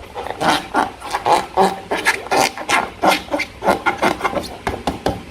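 Slime being squished and worked by hand: an irregular run of short squelches and clicks, a few a second, easing off near the end.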